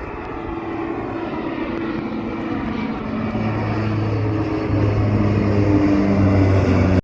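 Airplane engine noise growing steadily louder as the aircraft approaches, with a steady low hum coming in about halfway through. The sound ends abruptly.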